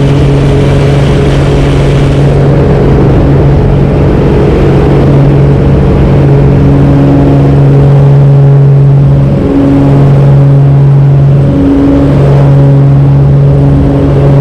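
Cessna 210K's six-cylinder piston engine and propeller at full takeoff power, a loud, steady drone during the takeoff roll and initial climb. The drone dips briefly twice, about nine and a half and twelve seconds in.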